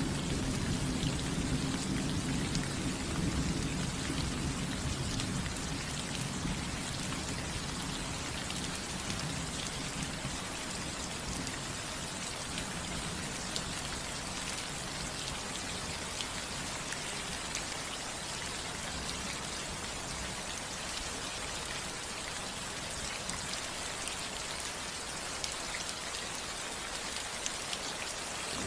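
Steady rain falling on a house roof. A low rumble of thunder dies away over the first few seconds.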